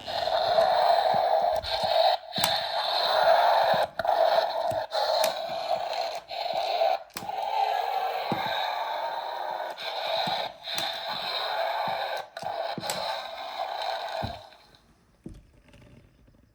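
A child making a long, hissing, growling noise with the mouth for a toy dinosaur's bite attack, broken by a few short gaps, stopping a couple of seconds before the end.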